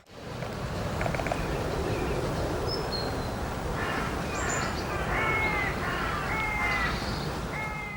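A crow cawing in a rapid run of about six short calls through the second half, with a couple of brief high chirps from a small bird shortly before, over steady outdoor background noise.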